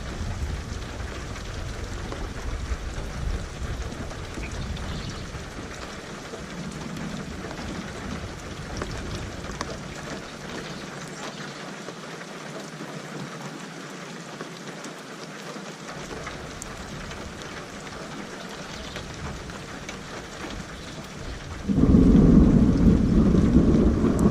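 Steady rain falling, with a low rumble of thunder at first that fades away. Near the end a sudden loud clap of thunder breaks in and keeps rumbling.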